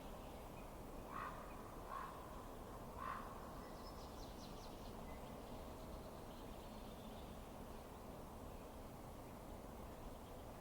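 Steady low rush of a wood fire, with three short bird calls about a second apart near the start, the loudest sounds here, and faint high chirps a little later.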